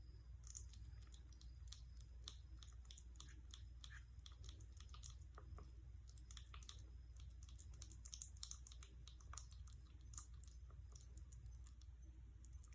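Faint, irregular soft clicks and smacks, like small chewing or lapping, over a steady low hum.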